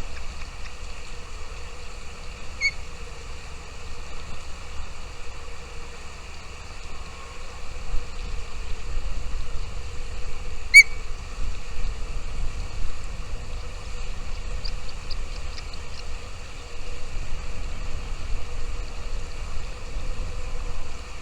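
Two short, high bird chirps, one about three seconds in and a louder one about eleven seconds in, with a quick run of faint high ticks around fifteen seconds, over a steady low rumble and hiss.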